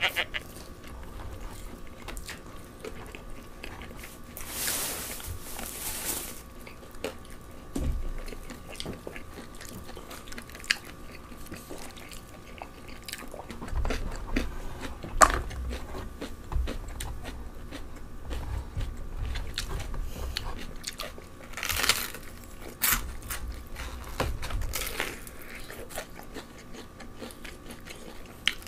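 Crispy fried chicken being bitten and chewed close to the microphone, with several louder crunches spread through.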